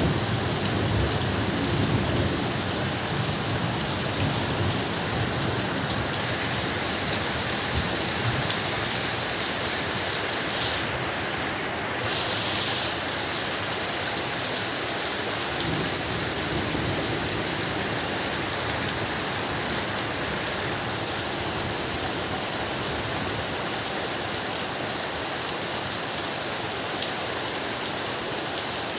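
Steady heavy rain falling, an even hiss of drops on surfaces. The hiss briefly thins about eleven seconds in.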